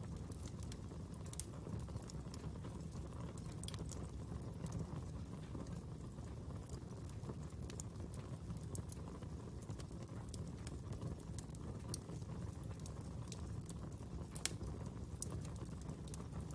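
Fire burning with a steady low rumble, crackling with scattered, irregular sharp pops, one of the sharpest near the end.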